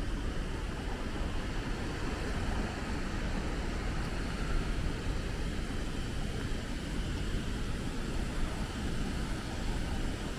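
Naena Falls pouring down: a steady, unbroken rush of falling water, heaviest in the low end.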